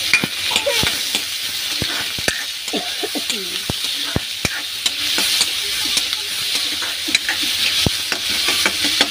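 Chopped onions and green chillies sizzling in hot oil in a kadai, stirred with a spatula that scrapes and clicks against the pan many times.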